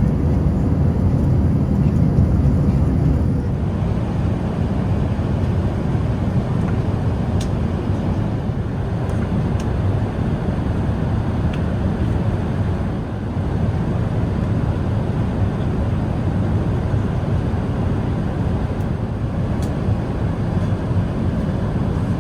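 Steady low roar inside the economy cabin of an Airbus A380-800 in cruise: engine and airflow noise, with a few faint ticks.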